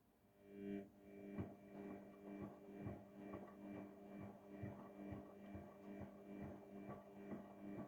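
Haier 7.5 kg washing machine's drum motor starting up about half a second in and turning the drum on a delicate wash cycle. It makes a quiet, steady hum with a throbbing beat of about two a second.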